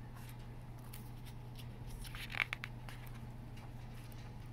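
A picture book's page being turned: a brief papery rustle with a few sharp clicks about two seconds in, over a steady low hum.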